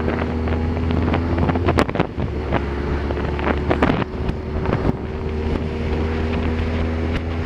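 Vehicle interior while driving: a steady engine drone and road noise, which dips briefly about two seconds in, with scattered clicks and knocks.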